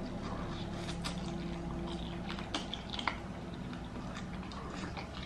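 Quiet mouth sounds of a person chewing food: soft, wet clicks and smacks at irregular moments, over a faint steady hum.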